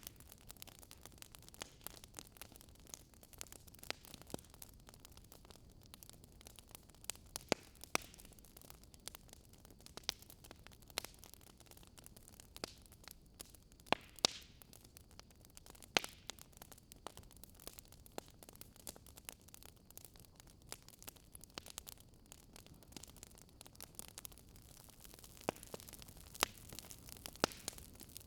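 Wood fire crackling in a fireplace: irregular sharp pops and snaps over a soft hiss, a few of them louder than the rest.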